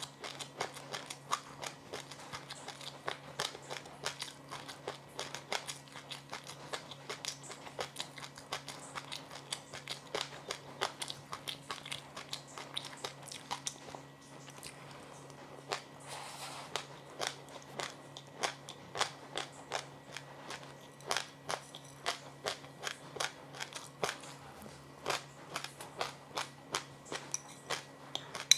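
Crunchy food being chewed: a rapid run of crisp crackling crunches, several a second, with a short lull about halfway. A low steady hum runs underneath.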